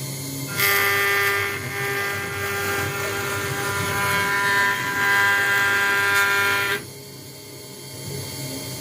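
CNC router spindle with its bit cutting into an acrylic sheet: a loud whining, hissing cutting noise that starts about half a second in and drops back to the quieter hum of the running machine for the last two seconds.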